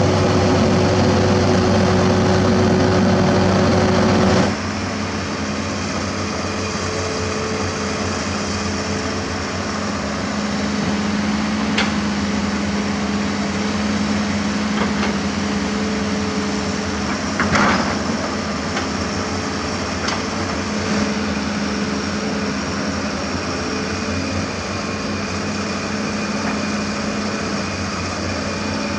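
Shantui SD16F bulldozer's turbo diesel running steadily under load with a turbo whistle, and now and then a sharp metallic knock from the tracks or blade. About four seconds in the sound drops slightly and shifts to a lower steady hum.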